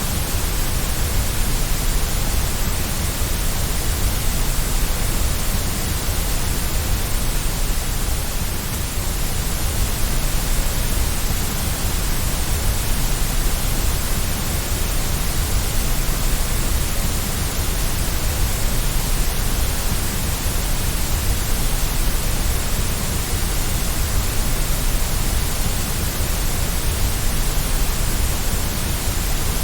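Steady white noise: an even, unbroken hiss across the whole range with a strong low rumble underneath.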